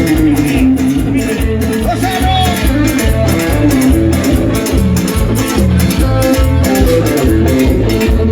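A live band playing Latin American dance music: a guitar melody over bass and a steady drum beat with regular cymbal strokes.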